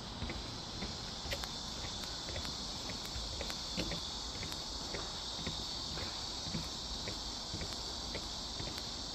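Cicadas droning steadily in one high, unbroken band, with footsteps crunching on a forest path now and then.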